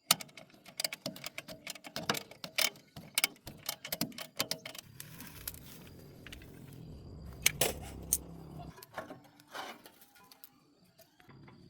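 Sharp, irregular metallic clicks and clinks of hand tools and metal parts being worked during a machine repair, with a low hum for about four seconds in the middle.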